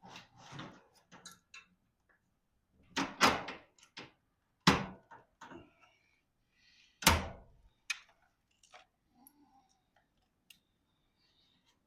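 Clunks and knocks from a steel garage door and its hardware being worked on by hand: three loud thuds about three, four and a half, and seven seconds in, with smaller clicks and rattles between.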